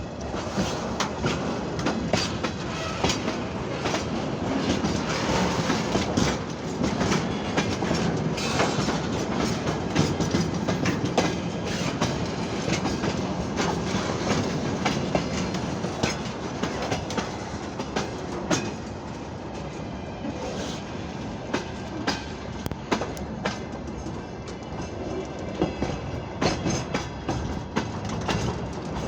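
Freight train wagons rolling along the track, with wheels clattering over rail joints in a steady run of sharp clicks.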